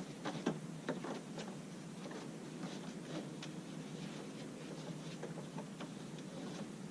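Tie-down strap and buckle being handled on a roof-top kayak loader: scattered light clicks and knocks, most of them in the first second and a half, over a steady background hiss.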